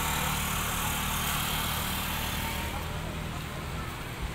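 A motor vehicle engine running steadily, a low, even hum under a constant hiss.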